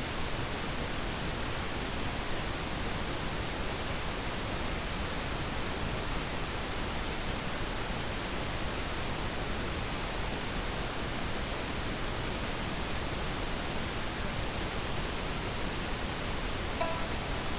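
Steady pink noise, an even hiss. Near the end a timer signal begins, a few short ringing notes at several pitches.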